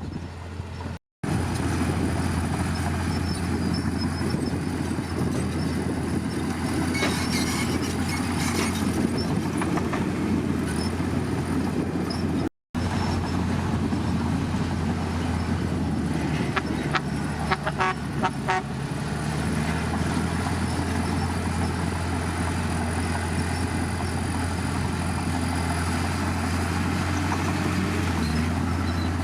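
Heavy diesel earthmoving machinery running steadily under a low engine drone, with a short run of sharp clanks a little past the middle. The sound drops out to silence twice, very briefly.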